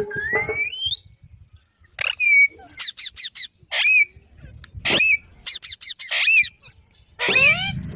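Pet green parrot screeching: a rising call at the start, then a rapid string of short, sharp squawks.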